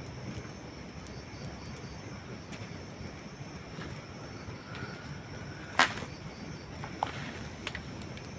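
Campfire of dry wood burning with a steady low hiss, one loud sharp pop about two-thirds of the way through and two smaller pops soon after.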